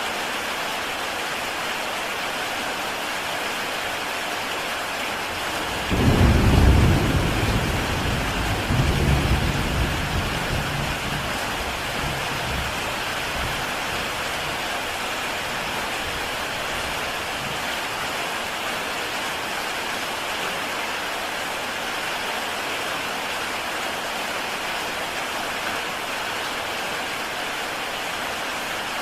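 Heavy rain falling steadily on a tile roof, with a sudden deep rumble of thunder about six seconds in that swells again and fades away over several seconds.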